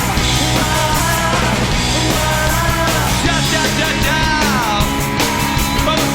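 Live rock band playing an instrumental passage, with drums, bass and guitars and a lead line that bends and slides down in pitch about four seconds in.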